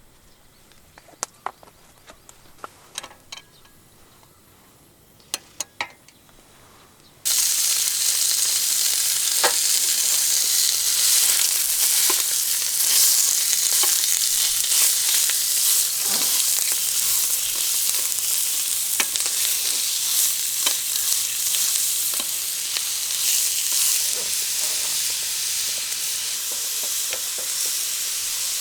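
A few light clicks, then about seven seconds in a loud sizzle starts abruptly: food frying in a hot pan. The sizzle holds steady, dotted with small pops and crackles.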